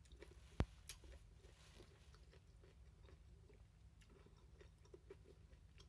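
Faint chewing with small wet mouth clicks while eating, and one sharp click a little over half a second in.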